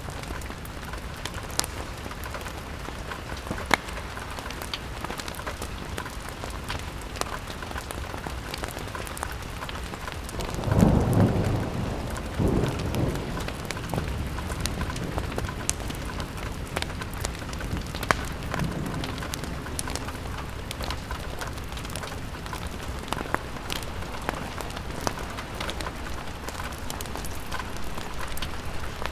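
Steady rain on a window, a continuous hiss with many scattered sharp ticks, and a roll of thunder about ten seconds in that rumbles for a couple of seconds and fades, with a fainter rumble a few seconds later.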